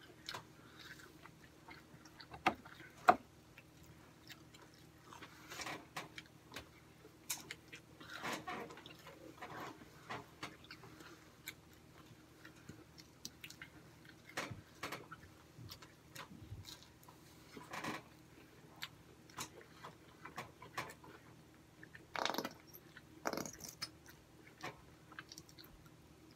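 Chewing and biting while eating chicken nuggets, with scattered small clicks and knocks from handling food and cutlery. Two sharp clicks about three seconds in are the loudest sounds.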